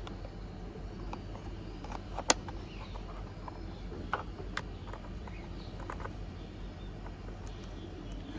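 Scattered clicks and taps of hard plastic toy parts being handled as the front wheels are fitted onto a toy bus, with one sharper click about two seconds in, over a steady low hum.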